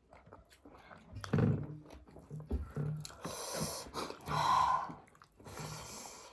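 Close-up eating sounds: chewing, with several loud, hissy breaths or sniffs through the nose.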